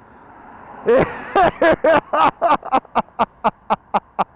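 A man laughing hard: a long run of rapid 'ha-ha' bursts, about five a second, starting about a second in after a short lull.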